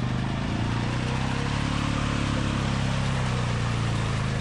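ATV engine held at high revs under heavy load, its pitch rising a little mid-way and easing back, with a dense hiss over it, as the quad pushes through a deep mud rut.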